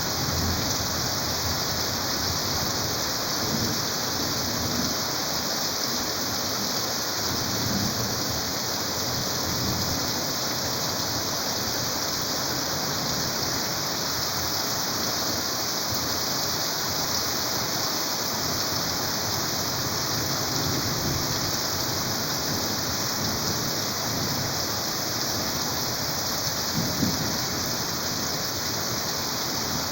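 Heavy rain falling steadily, a dense even hiss of drops on surfaces. There are faint low rumbles now and then, and a brief louder knock about 27 seconds in.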